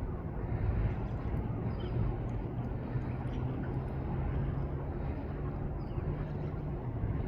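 Steady outdoor rumble with a low, even, engine-like hum, most likely a distant vehicle or aircraft. Faint, short, high chirps come and go over it.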